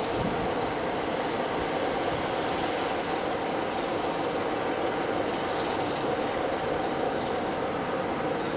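Train running on the line: a steady noise with no clear rhythm or distinct knocks.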